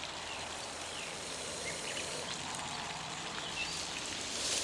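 Steady outdoor noise with a few short high chirps, and near the end a loud hiss: a spitting cobra hissing in its hooded threat display.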